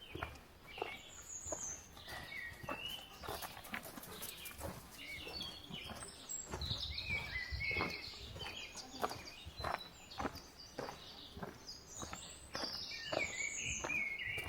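Footsteps walking on a forest path at a steady pace, about one step a second, with songbirds singing in short phrases around them.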